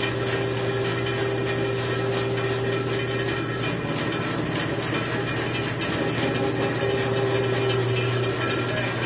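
14-inch Chicago/Central Machinery bandsaw, fitted with a 6-inch riser block and a Timberwolf resaw blade, running steadily: a constant motor hum under the whir of the blade and wheels. The owner feels the motor lacks power and wants to step the belt up.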